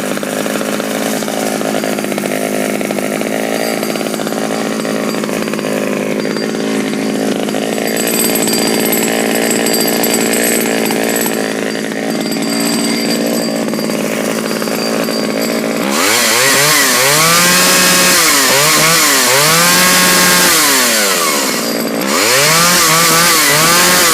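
A 1980 Pioneer P28 two-stroke chainsaw idling steadily, then revved up and down several times over the last third, with a brief drop back toward idle near the end before it revs again. The saw is in good running order.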